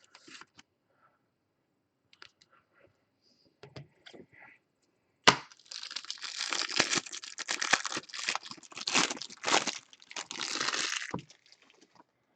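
A sharp snap, then about six seconds of crinkling and tearing as a foil trading-card pack wrapper is ripped open and crumpled. Before that, a few faint light clicks from handling cards.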